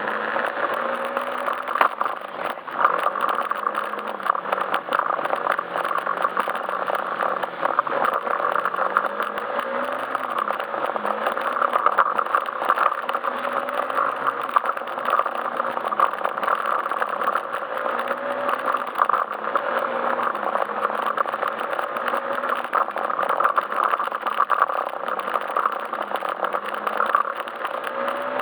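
Yamaha Majesty S scooter's single-cylinder engine running under way, its note rising and falling every few seconds as the throttle and speed change, over a steady rushing noise of the ride.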